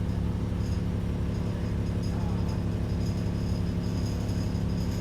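ADL Enviro 400 double-decker bus heard from inside the cabin, its diesel engine running with a steady low drone. A faint high-pitched thin tone comes and goes over it.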